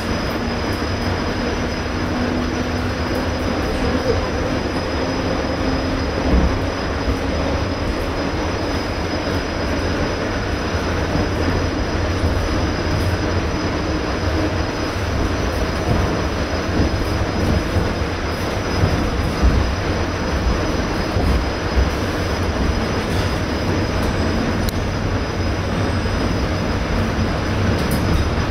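The interior of an ED4M electric suburban train running at speed: a steady low rumble of wheels on rails and the carriage, with an occasional short knock.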